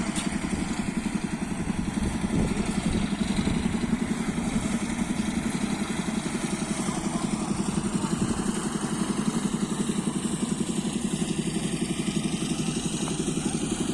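A small engine running steadily at an even speed with a fast, regular firing pulse, the kind of engine that drives machinery during concrete pouring.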